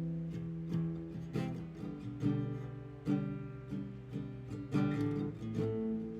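Acoustic guitar strumming chords, a stroke roughly every three-quarters of a second, each chord left to ring: an instrumental passage of a slow song with no singing.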